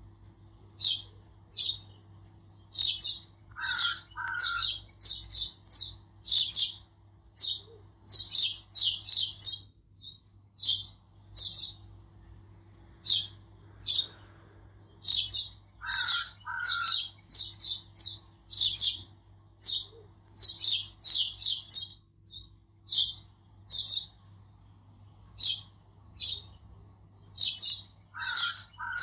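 Small bird chirping in quick runs of short high chirps, with a lower two-note call three times at even intervals.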